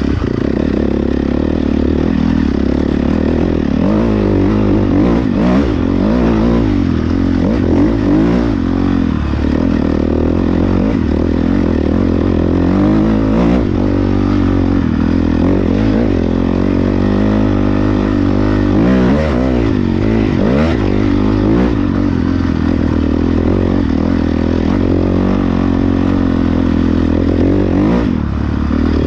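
Dirt bike engines running and revving continuously, with the engine pitch repeatedly rising and falling and several glides overlapping at once.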